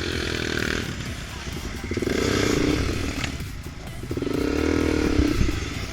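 Off-road motorcycle or quad engine revving hard in three bursts of about a second each, typical of trying to pull a stuck vehicle free.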